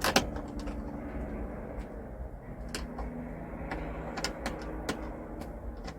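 Scattered light clicks and knocks, the loudest right at the start, over a low steady hum.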